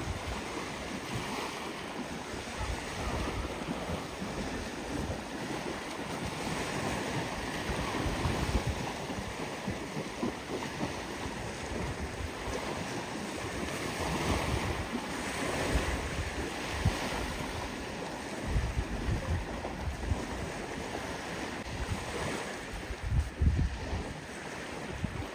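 Sea surf washing in steadily, with wind buffeting the microphone in uneven low gusts that grow stronger in the second half.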